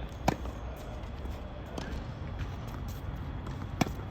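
Two tennis balls struck by racket strings, sharp hits with a short ring, about three and a half seconds apart, over a steady low background rumble.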